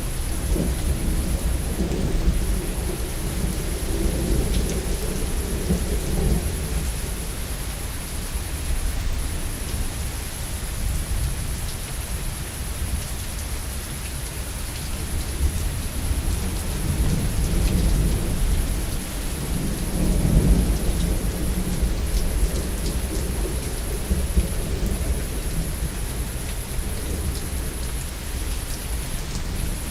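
Steady heavy rain with thunder rumbling twice, once in the first few seconds and again about two-thirds of the way through, the second roll the louder.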